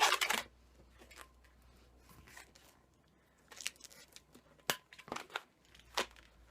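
Latex modelling balloon being handled and twisted by hand: short rubbery squeaks and crinkles, the loudest right at the start, then scattered sharp squeaks and clicks in the second half.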